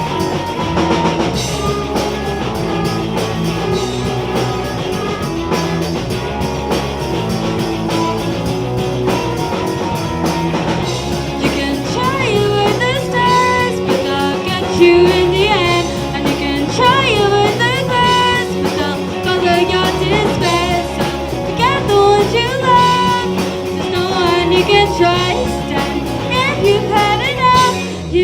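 Live rock band playing, guitar, bass and drums, with a female lead vocal coming in about twelve seconds in.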